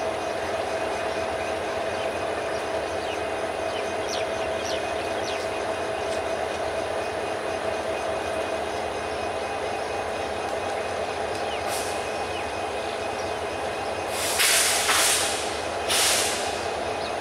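A train of empty passenger coaches rolling slowly in reverse, a steady rumble with a constant hum. Near the end come two loud bursts of hiss, the first about a second long.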